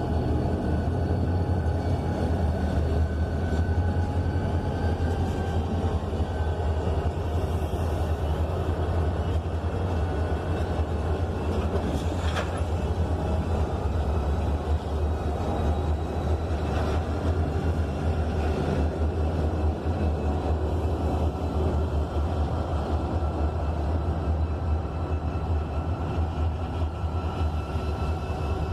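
Diesel freight train running, a deep steady rumble with no clear rise or fade.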